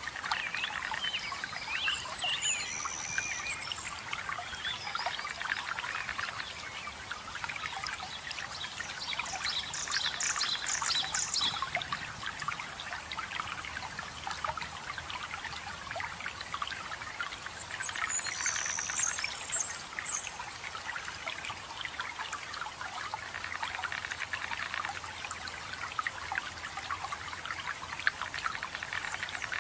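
Water falling and splashing steadily, with songbirds chirping over it now and then: a few calls at the start, a quick trill about ten seconds in, and a burst of high chirps near twenty seconds.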